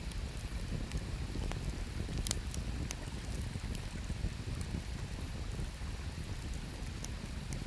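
Wood fire crackling with scattered sharp pops, the strongest a little over two seconds in, over a steady low rush of flowing river water.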